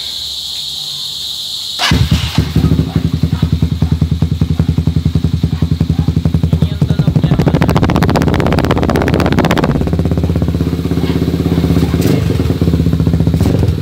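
Motorstar Z200 Explorer motorcycle engine starting about two seconds in, through an open exhaust with its silencer insert removed. It idles with a fast, even pulse, is revved once around the middle, and drops back to idle. Crickets chirp before it starts.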